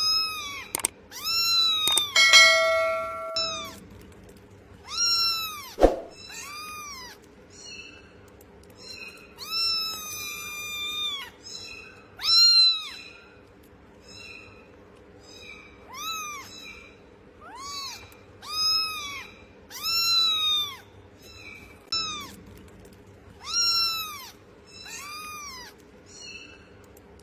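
A cat meowing over and over, a long run of separate meows each a second or two apart, each rising and falling in pitch. About two seconds in, a brief steady ringing tone sounds under a meow.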